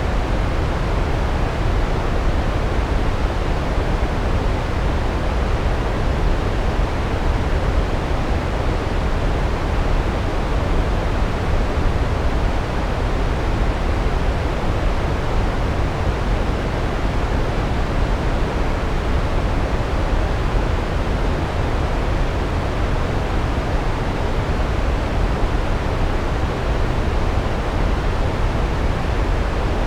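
Large waterfall: a steady, dense rush of falling water, heaviest in the low end.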